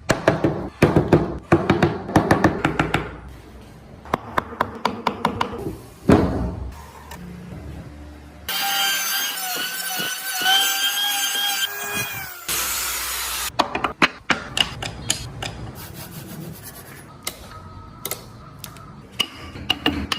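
Carving and rasping a block of Fujian cypress: runs of quick sharp strikes and scraping rubs on the wood. Midway through, a steady pitched whine lasts about four seconds.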